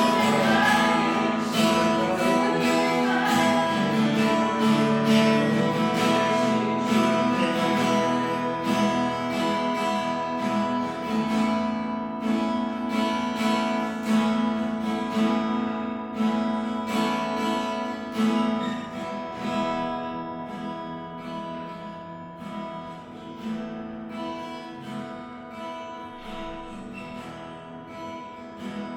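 Acoustic guitar strumming chords at an even pace, growing gradually softer through the second half.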